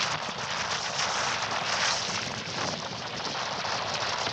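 Strong gusty wind buffeting the microphone, crackling and rumbling, with choppy water splashing around the canoe.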